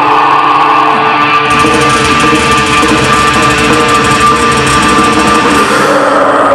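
A heavy metal band playing live: an electric guitar opens the song with held notes, and the full band with drums and bass comes in about a second and a half in.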